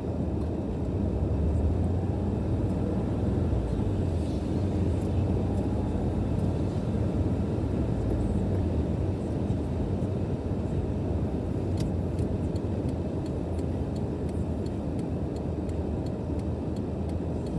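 A car driving, with a steady low road-and-engine rumble.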